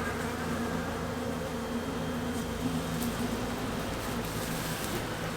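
Honeybees from an opened hive buzzing steadily, a dense, even hum.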